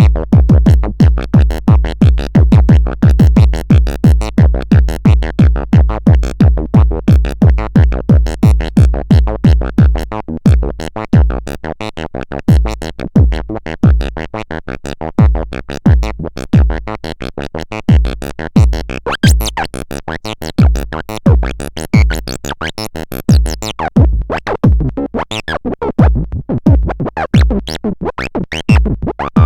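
Electronic music from a synthesizer and drum machine: a fast, evenly repeating pattern of pulses over a heavy low beat. About a third of the way in it drops in level and the low beats become sparser.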